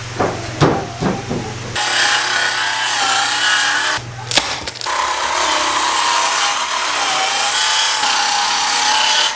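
Power tool running on wood in two long runs, with a wavering whine, after a few handling knocks; it pauses briefly about four seconds in.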